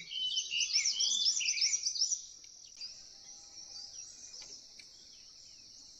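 Wild birds singing: a quick run of loud, high chirping notes for about the first two seconds, then fainter scattered chirps. Under them runs the steady high-pitched drone of insects.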